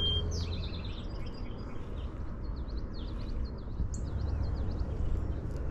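A small bird singing in quick series of short, high chirps, over a steady low background rumble.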